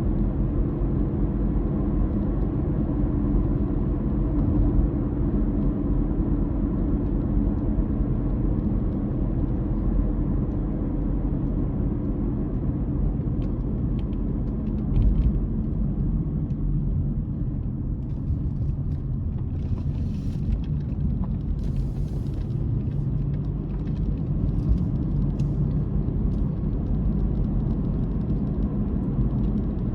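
Car engine droning steadily with low road rumble while driving. Around twenty seconds in there are a couple of brief, faint hissing sounds.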